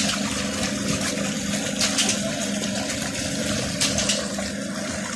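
A steady mechanical hum, like a motor or engine running, over a broad rushing noise, with a few brief clicks.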